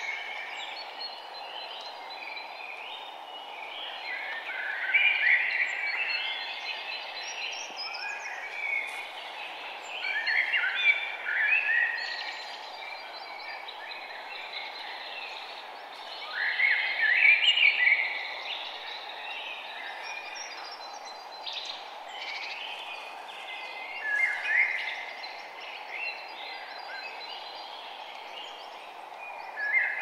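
Birds singing, with phrases of song coming every few seconds over a steady background hiss.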